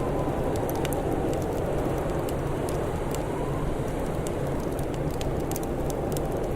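Crackling fire with scattered sharp pops over a steady low rush of noise.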